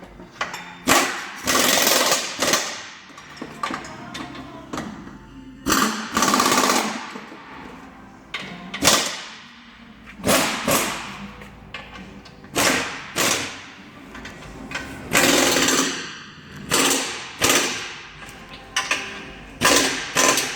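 Workshop tools working on a car's exhaust while the catalytic converter is changed: about a dozen loud, irregular bursts of rapid mechanical rattling and sharp metal impacts, some lasting about a second, others short with quickly fading tails.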